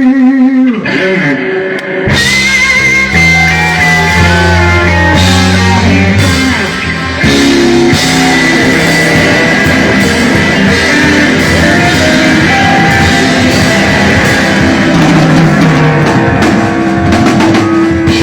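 Live blues-rock band playing electric guitar, bass and drum kit. A held, wavering note dies away about a second in, and the full band comes in about two seconds in.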